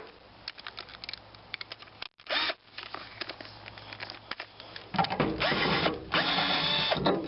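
Power drill-driver backing out screws: light clicks and rattles at first, a short run about two seconds in, then a longer run near the end with the motor's pitch rising and falling.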